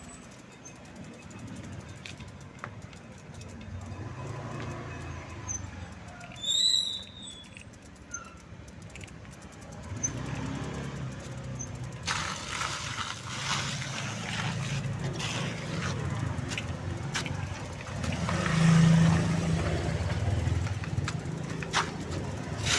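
Street traffic passing: a low engine hum from passing vehicles, a short high chirp about a third of the way in, then louder road noise from about halfway, swelling with a passing engine near the end.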